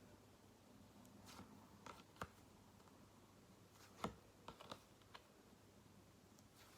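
Near silence: room tone with a few faint, irregular clicks and taps, the loudest about four seconds in.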